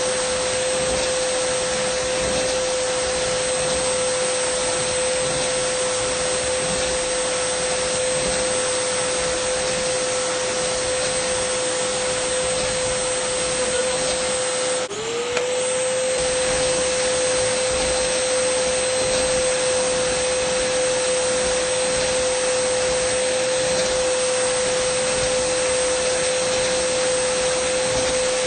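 Dyson vacuum cleaner running continuously: a steady motor whine over a rushing airflow hiss. About halfway through the whine briefly dips in pitch and level, then comes straight back.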